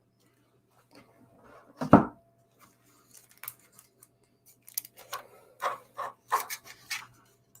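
Trading cards and packaging being handled on a table: one knock about two seconds in, then a quick run of short scraping, rubbing strokes near the end.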